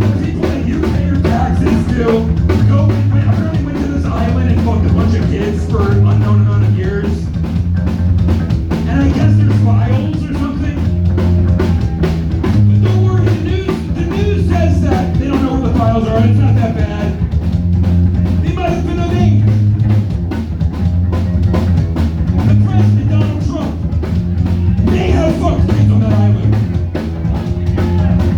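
Live rock band playing: drum kit, guitar and bass, with a voice singing over it.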